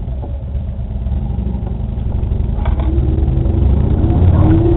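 Car engine and road rumble heard from inside a car, slowly growing louder, with a faint rising whine in the last second and a half.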